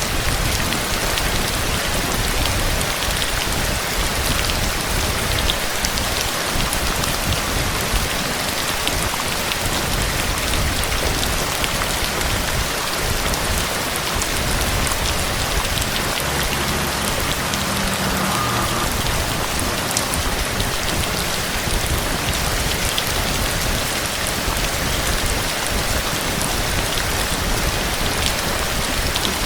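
Heavy rain falling steadily, a dense even hiss of rain with scattered individual drop hits.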